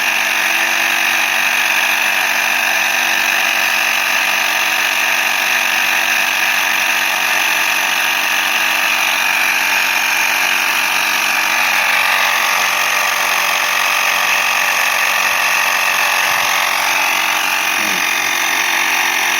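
Portable tyre-inflator compressor running steadily, pumping up a bicycle tyre; its tone changes slightly about twelve seconds in.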